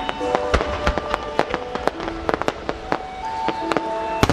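Aerial fireworks shells bursting: a rapid, irregular run of sharp bangs and crackles, several a second, over music with long held notes.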